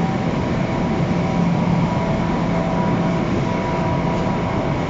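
Long Island Rail Road commuter train making a steady rumble with a faint, even high hum running through it.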